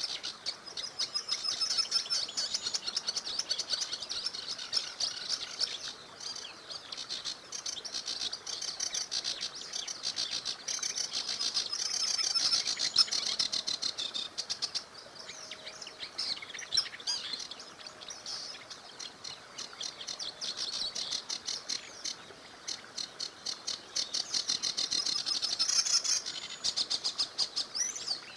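Several songbirds singing together, a dense, continuous chorus of rapid high chirps and trills.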